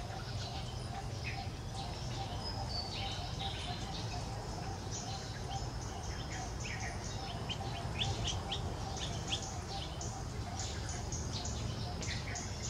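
Birds chirping, many short high chirps coming in clusters, over a steady low outdoor rumble.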